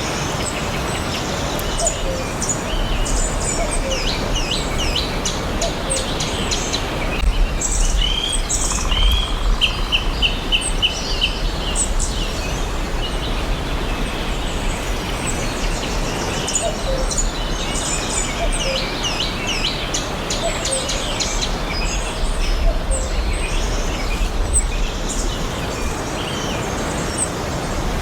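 Several forest birds chirping and singing over a steady low rumble. About nine seconds in, one bird gives a quick run of evenly repeated notes.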